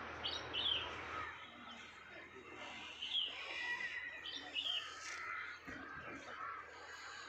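Birds chirping outdoors: short, falling chirps come every second or so over a steady background of rural ambience.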